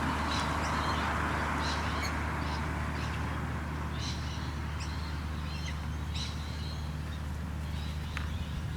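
Short, sharp bird calls repeating irregularly, a dozen or so, over a steady low hum.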